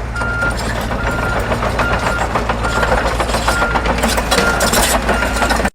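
Bulldozer sound effect: a diesel engine running with a low drone and clattering, and a reversing alarm beeping a little more than once a second. It cuts off suddenly near the end.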